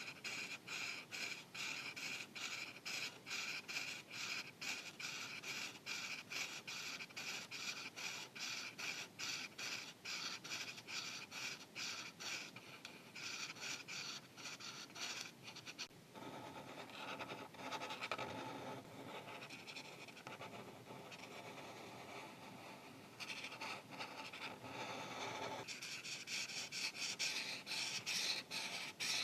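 Marker tip scratching back and forth on paper in quick, even strokes, about four a second, as an area is colored in. A little past halfway the strokes change to a smoother, fuller rubbing for several seconds, then the quick scratching strokes return near the end.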